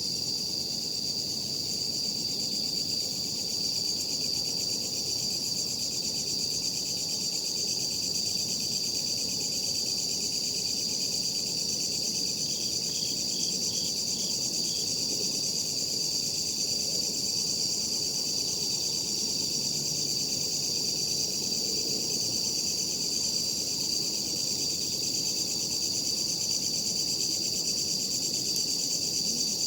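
Night insects, crickets, singing in a steady unbroken high trill, with a short run of about six separate chirps from another insect midway through.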